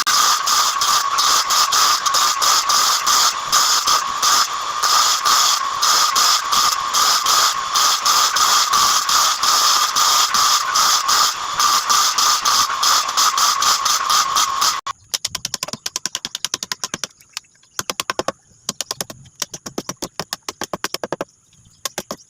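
A power tool running steadily with a high whine and a fast rattling flutter, which cuts off suddenly about fifteen seconds in. Rapid, quieter clicking follows in short runs.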